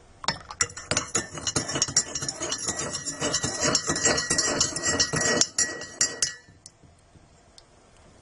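Rapid clinking and clattering of hard objects, many small knocks close together, which stops about six seconds in.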